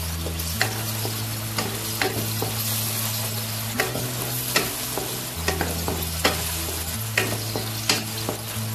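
Sliced okra frying in hot oil in a wok, sizzling steadily, while a wooden spatula stirs it with irregular scrapes and knocks against the pan.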